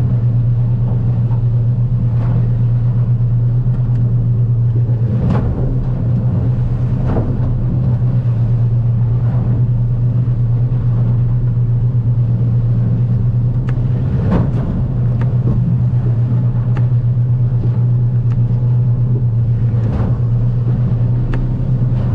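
Stabicraft 2050 Supercab aluminium boat under way in rough water: its outboard engine runs with a strong steady drone. The hull knocks sharply on the swells every few seconds.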